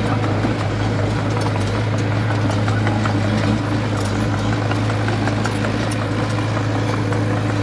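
Diesel engine of heavy earthmoving machinery running steadily with an even low hum, with faint scattered clicks over it.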